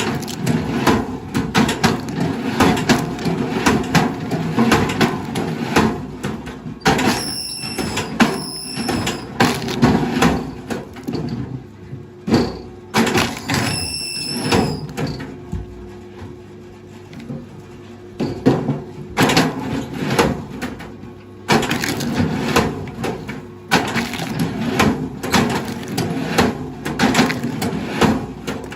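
Wood cracking and crunching as heavy machinery breaks up timber or stumps, with the machine's engine running underneath. Brief high squeals come twice about a quarter of the way in and once near the middle, and the cracking eases for a few seconds after that.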